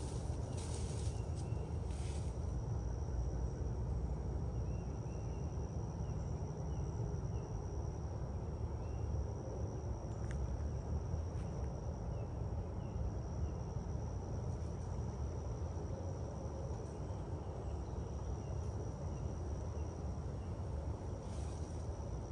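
Honey bee swarm buzzing steadily, a dense hum of many bees, with a constant high-pitched whine above it and a few faint chirps.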